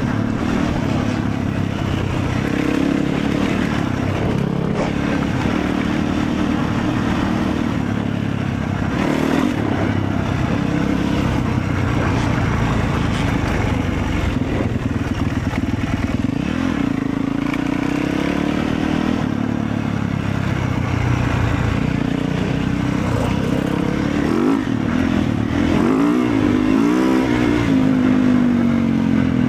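Motorcycle engine running steadily on the move, its pitch rising and falling near the end as the throttle changes.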